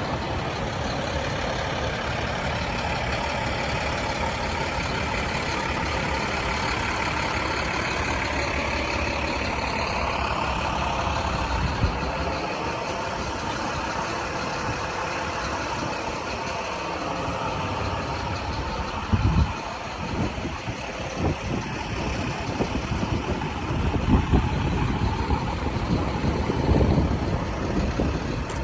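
Ford F-150 pickup's 3.5L V6 running while the truck is driven, its pitch slowly rising and falling. Irregular low rumbles and thumps come in over the last third.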